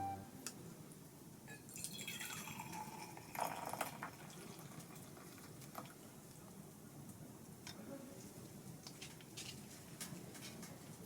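Liquid being poured and dripping, soft and close. It comes in a couple of brief swells with a few small clicks in between.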